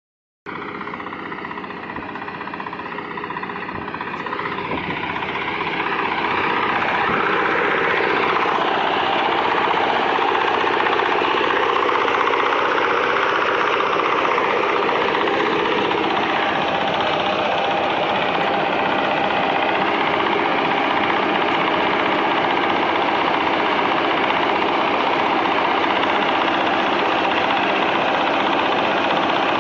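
Engine and machinery of a small paddy and wheat harvester running. It grows louder over the first six seconds, then runs steadily.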